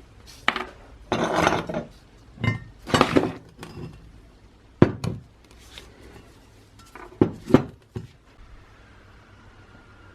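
Metal parts being handled on a workbench: a string of sharp clinks and knocks, with a couple of short scraping sounds between them.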